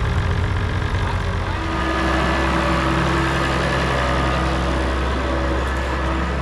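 Farm tractor engine running. Less than two seconds in its note changes and settles into a smoother, steadier drone.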